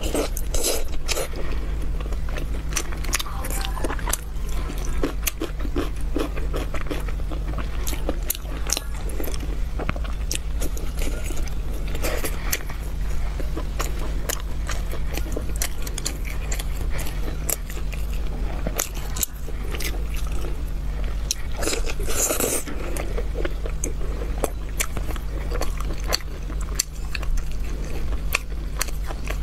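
Close-up eating sounds of a person biting into and chewing braised pork belly: many sharp, quick mouth clicks and crunches throughout, over a steady low hum.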